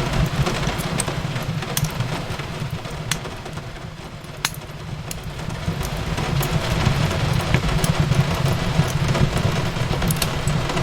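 Wood fire crackling in a fireplace with rain falling: a steady low rumble and hiss with scattered sharp pops, easing a little around four seconds in before swelling again.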